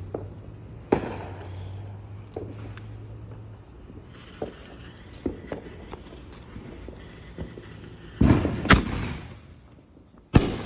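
Consumer aerial fireworks going off: scattered sharp cracks, then two loud bangs with crackling about eight seconds in and another loud bang near the end. Crickets chirp steadily behind.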